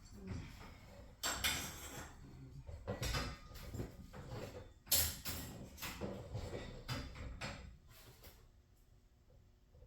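Irregular metal clanks, knocks and scrapes of tools and garage door hardware being handled during a torsion spring replacement. The loudest knock comes about five seconds in, and the sounds thin out near the end.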